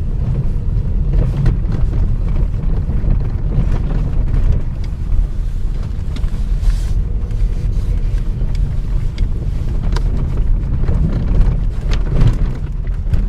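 Nissan Qashqai+2 driving over rough road, heard from inside the cabin: a steady low road rumble with repeated knocks and rattles from the front end. These knocks are the sign of worn steering shaft universal joints, stabilizer bar bushings and tie rod ends, before they were replaced.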